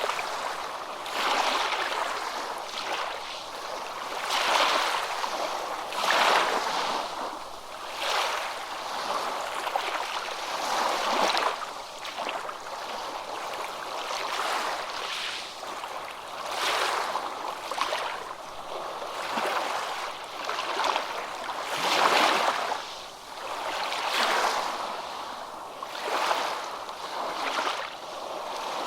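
Ocean waves washing in and breaking over and over, each surge swelling and fading about every one to two seconds.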